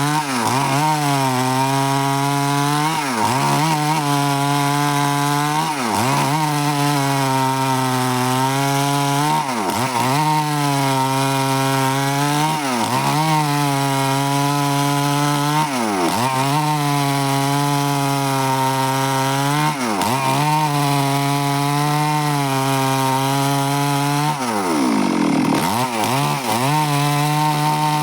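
Stihl chainsaw running steadily at high speed, cutting through wood. Its pitch sags briefly and recovers every three to four seconds.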